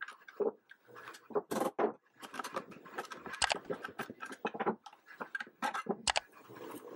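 Irregular clicks, knocks and scrapes of hand work on small metal saw parts and tools on a workbench.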